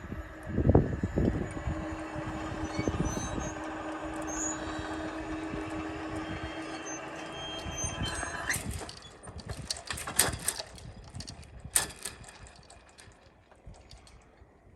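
A road vehicle's engine running past, with heavy low rumbles at first and a steady hum that fades after about eight seconds, followed by a few sharp clicks.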